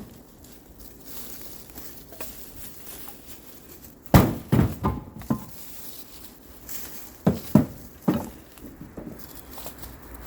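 Pieces of cut firewood or branches being dropped and tossed down, making several thumps: a cluster of knocks about four seconds in and three more around seven to eight seconds in, with quieter rustling in between.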